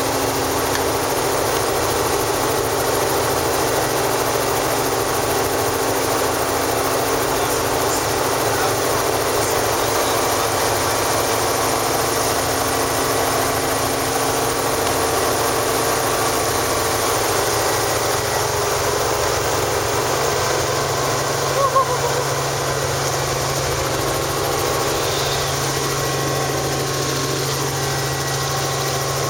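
Helicopter running with a steady, even engine-and-rotor drone made of several constant tones, with a brief louder sound about three-quarters of the way through.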